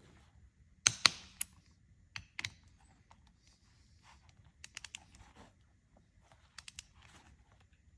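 Sharp metallic clicks and clinks from hand tools and bolts as a torque converter is bolted back together, coming in a few scattered groups, the loudest about a second in.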